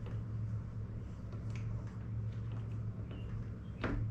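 Faint plastic clicks and handling noise as the dishwasher door's handle piece is worked onto its retaining clip, with a sharper click near the end, over a steady low hum.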